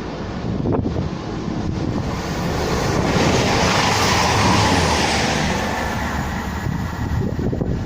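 A train passing through on the East Coast Main Line, its noise swelling to a peak about halfway through and then fading, with wind on the microphone.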